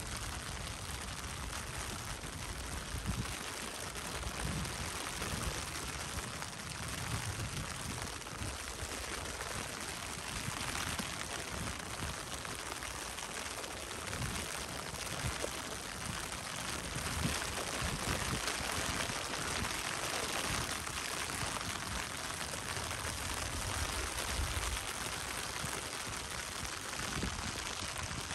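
Steady rain falling, an even hiss that goes on without a break.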